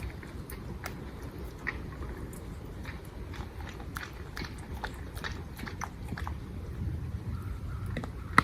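Dry fallen leaves and twigs crunching and crackling in irregular sharp snaps, with a louder snap right at the end.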